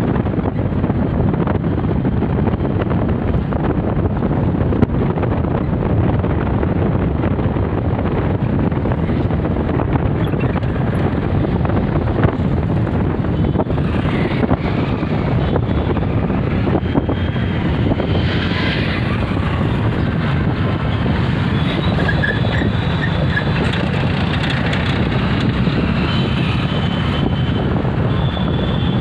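Steady, loud wind rumble buffeting the microphone, with faint thin higher tones coming and going in the second half.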